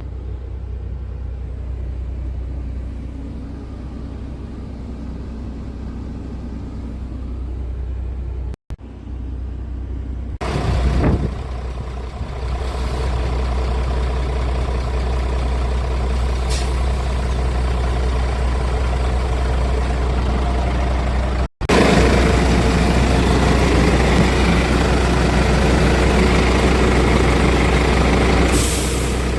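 Scania R450 truck's diesel engine idling with a steady low hum, with two abrupt cuts in the sound. Shortly after the first cut there is a brief louder noise. After the second cut the engine is heard louder and fuller.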